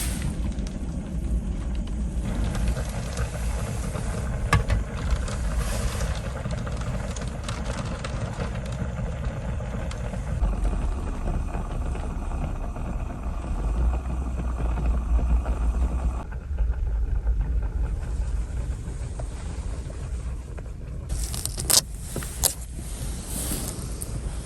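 Strong wind in a snowstorm, a steady low rumble with gusts. Near the end two sharp clicks stand out.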